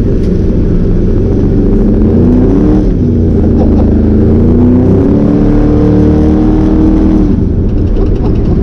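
489 cubic inch big-block V8 with a big carburettor revving hard, most likely spinning the truck's dual rear tyres in a burnout. Its pitch climbs about two seconds in, dips, climbs again and holds, then drops near the end.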